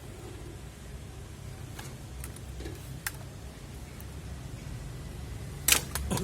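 A steady low hum with a few sharp clicks scattered through it, and a quick run of louder clicks near the end.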